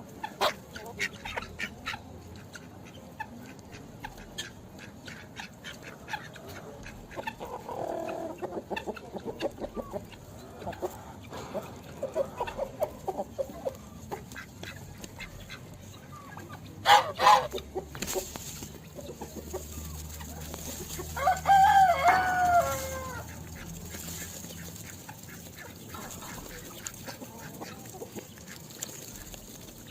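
Birds calling and chirping, with runs of short clucking calls and, about two-thirds of the way through, one longer, louder call with several tones that falls in pitch. Two sharp, loud sounds come shortly before it.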